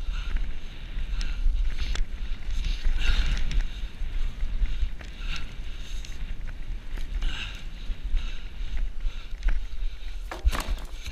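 Wind rumbling on the microphone during a bicycle ride, with a rushing sound that swells about every two seconds and scattered clicks and rattles. There is a denser burst of clicks near the end.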